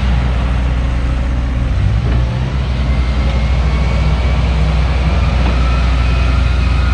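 Heavy construction machine's diesel engine running steadily under load, a deep drone that shifts briefly about two seconds in, with a faint high whine over it.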